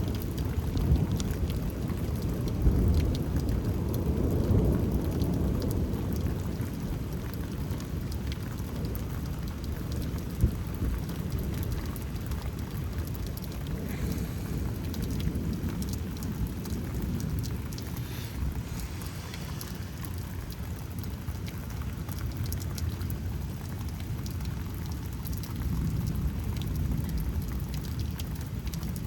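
Steady rain falling, with a low rumble of thunder that is heaviest in the first few seconds and then fades, swelling a little again near the end. A couple of sharp taps stand out.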